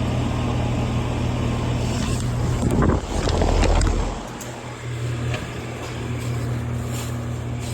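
Steady low electrical hum from an air-conditioning condenser unit whose fan is not running. About three seconds in comes a brief low rumble of wind or handling on the microphone, after which the deepest part of the hum drops away and a quieter hum carries on.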